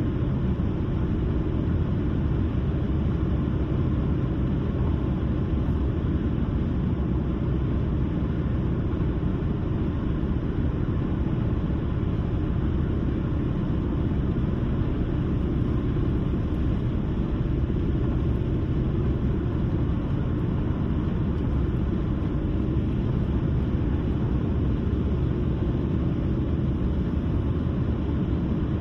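A car driving at a steady speed: an even, low road-and-engine rumble with tyre noise that does not change.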